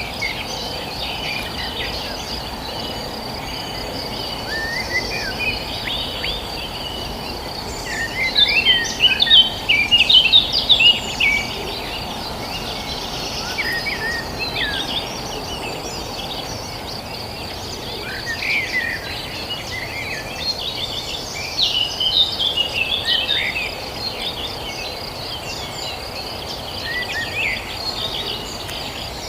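Several songbirds chirping in short, quick calls that come in flurries, loudest in two busy spells, over a steady high pulsing insect trill and a constant low background rush.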